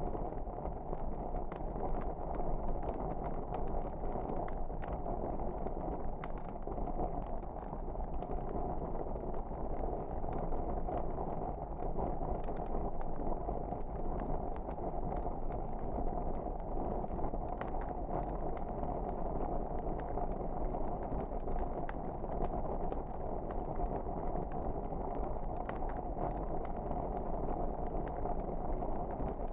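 Log fire burning in a fireplace: a steady low noise of flames with frequent small, sharp crackles and pops.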